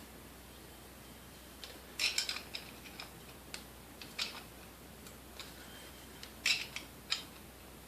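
Scattered light metallic clicks and clinks of tools on the coffee grinder's metal blade parts as they are worked at during disassembly. The clicks come singly and in short clusters, with quiet stretches between.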